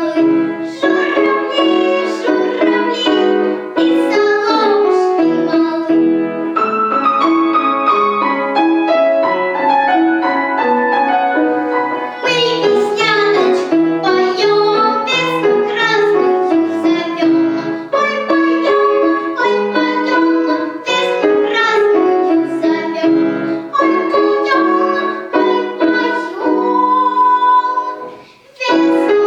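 A young girl singing with piano accompaniment, with a short pause near the end.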